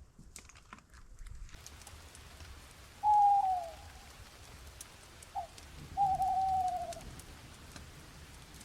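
A bird calling twice, each call one drawn-out falling note, with a short note between them, over a steady hiss that starts about one and a half seconds in.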